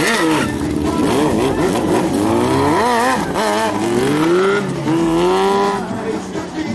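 Motorcycle engines revving, the pitch rising and falling again and again, with a long climbing rev near the end.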